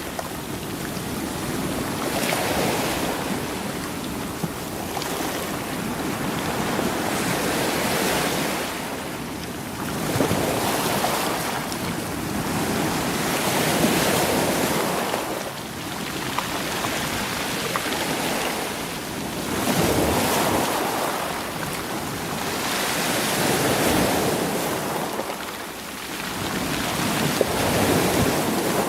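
Sea waves breaking and washing over rocks, rolling the stones, the surf swelling in every few seconds.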